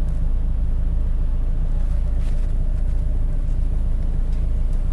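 Supercharged four-cylinder sports-car engine idling steadily with a low, even rumble, its exhaust made a little louder than stock.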